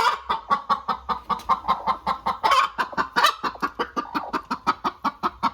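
Chickens clucking in a rapid, even run of short clucks, about eight a second.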